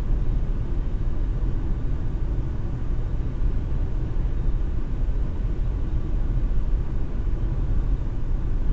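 Steady low rumble of a car driving: road and engine noise heard inside the cabin.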